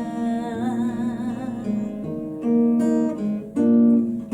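Acoustic guitar strummed as accompaniment while a female voice holds the word "down" with vibrato. Then the guitar plays on alone with several strummed chords in the second half.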